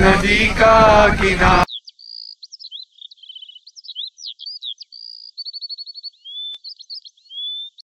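Voices shouting and singing in a crowded bus, cut off abruptly under two seconds in. Birdsong follows over otherwise total silence: varied whistled notes, short trills and a quick run of about ten repeated notes, ending just before the close.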